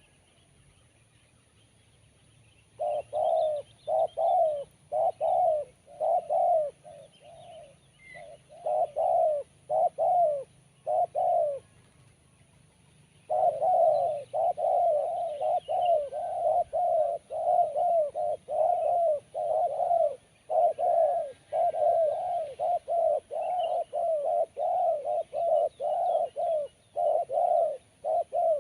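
Spotted dove (tekukur) cooing in a long run of short, quick coos with a crisp, sharp voice. The coos start a few seconds in, pause briefly near the middle, then continue steadily at nearly two a second.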